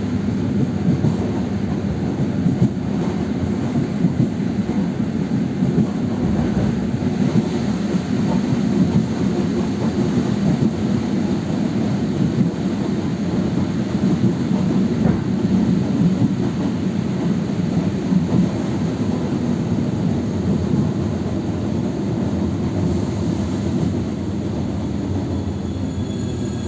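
ED9M electric multiple unit running along the line, heard from inside the carriage: a steady rumble of wheels on rail with irregular small knocks, easing slightly near the end.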